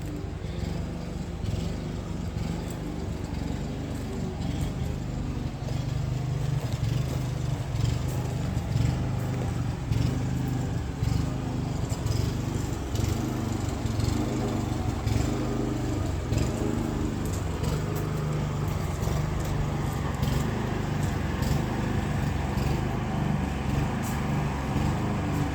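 Newly installed central air conditioner's outdoor condenser unit running: a steady low motor hum from the compressor and fan, growing a little louder about four seconds in.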